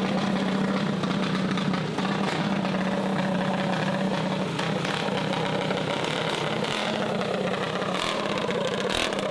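A small engine running steadily at idle, with the hubbub of an outdoor pit area around it.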